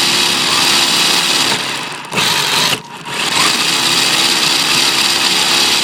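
Battery-powered RC drift car driving, heard from a phone cable-tied to its rear chassis: loud motor and drivetrain whine mixed with tyre and ground noise. It cuts out briefly about two seconds in and again around three seconds in as the throttle is let off.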